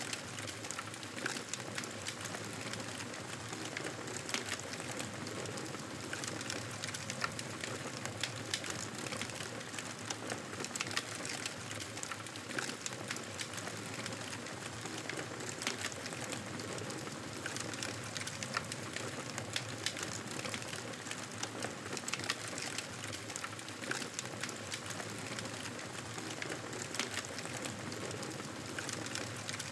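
Campfire burning with frequent sharp crackles and pops over a steady hiss.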